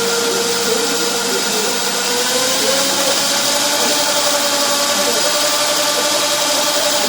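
Komatti-Mirai Racing electric motorcycle's motor running: a steady electric whine that rises slightly in pitch from about two and a half seconds in, over a steady hiss.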